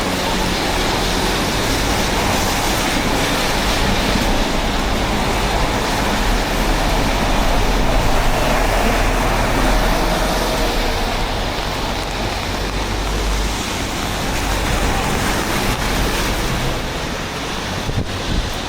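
Hankyu Kyoto Line train running, a steady rumble and rush of noise that swells about eight seconds in and eases toward the end, with a sharp click near the end.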